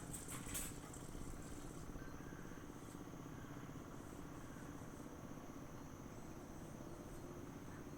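Insects trilling in a steady, high, continuous tone over faint rural ambience. A couple of sharp clicks come right at the start, and the trill settles in about two seconds in.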